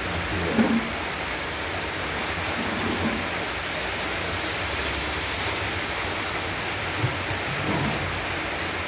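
Heavy tropical downpour: a steady, dense rush of rain falling on roofs and surfaces.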